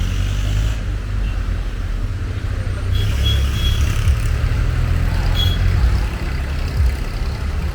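Steady low rumble of a car on the move, road and engine noise, with a couple of brief high chirps about three and five and a half seconds in.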